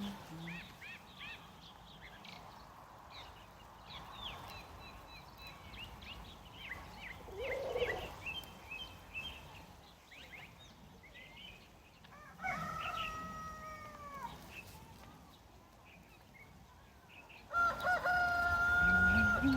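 A rooster crowing twice, each crow about two seconds long, first about twelve seconds in and again near the end. Quick high bird chirps run throughout.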